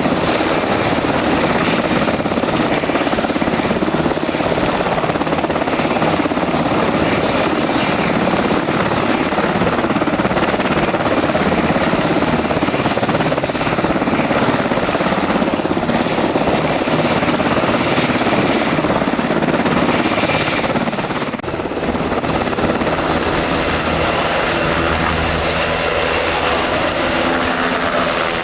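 UH-60A Black Hawk helicopter running with its turbine engines and rotor turning, a loud steady rush with a high turbine whine over it. About 21 seconds in the sound dips briefly, then the whine comes back a little higher and slowly climbs.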